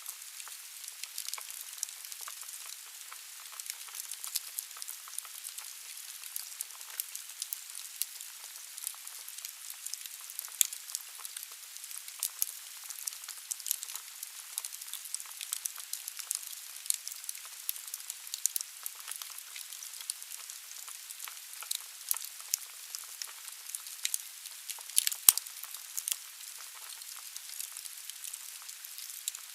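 Firewood burning in a fireplace: a steady hiss with dense crackling and small pops, and a louder snap near the end.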